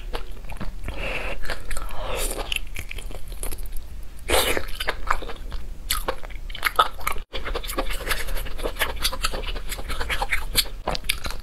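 Wet chewing and lip smacking as sticky, sauce-glazed braised meat is eaten, a quick run of moist mouth clicks with a few louder slurps. A brief cut to silence about seven seconds in.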